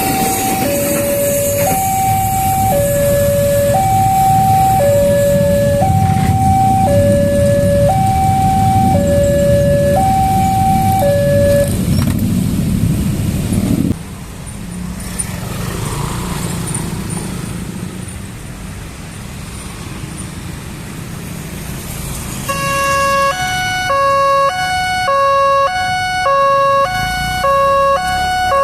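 Electronic two-tone level-crossing warning alarm, alternating high and low about once a second over the rumble of a passing train; the alarm stops about 12 s in and the train noise cuts off soon after. After a quieter stretch, a second crossing alarm starts about 22 s in, alternating faster, about twice a second.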